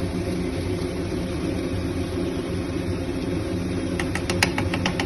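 A steady low machine hum runs throughout. About four seconds in, a quick run of about seven sharp taps follows: a metal spatula knocking against the kadai.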